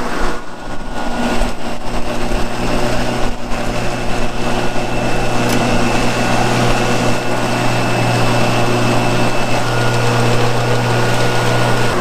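Toro 60V Turfmaster HDX battery-electric mower's motors running steadily as the mower is driven along: an even electric hum with a thin high whine.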